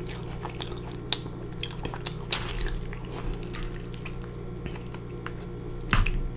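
Wet, squishy chewing of a mouthful of sauce-covered fries, with scattered short mouth clicks and smacks. In the second half a fork digs into the fries in the foil tray, with a louder clatter at about six seconds.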